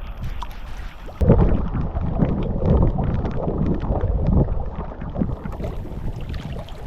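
Storm wind gusting over the microphone: a rushing buffet that jumps sharply louder about a second in and keeps rising and falling in irregular low gusts.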